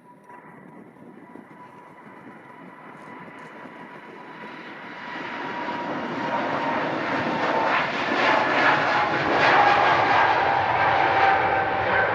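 Jet airliner growing steadily louder as it approaches, a steady engine whine over a rising rush of jet noise; the whine drops a little in pitch in the last few seconds as the plane passes close.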